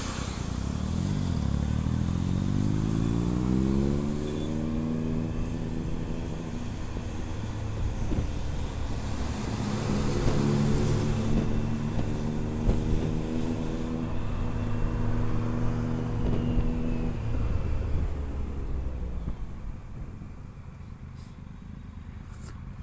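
Motorcycle engine pulling up through its revs as the bike accelerates over the first few seconds, then running at a steady cruising pitch with wind rushing past, easing off near the end.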